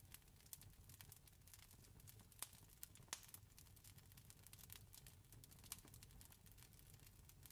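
Campfire crackling, with irregular small pops and a few sharper ones about two and a half and three seconds in, over a low steady rumble.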